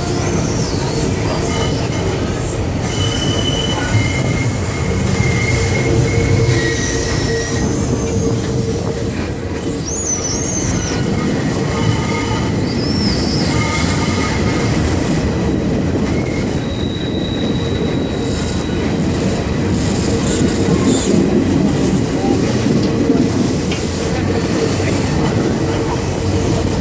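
Passenger train running along the track, heard from aboard: a steady rumble of wheels and carriage, with brief wavering high-pitched wheel squeals a few times in the first half.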